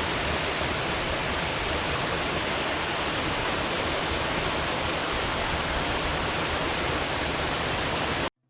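Steady rush of water flowing and falling below a reservoir dam, an even noise without rhythm, which cuts off suddenly near the end.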